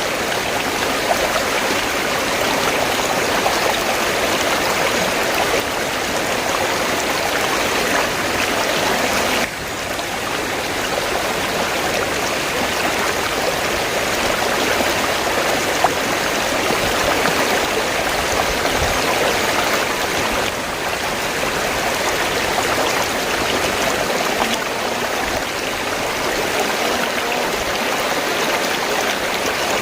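River water flowing steadily, a continuous rushing and babbling, with a brief dip in level about nine and a half seconds in.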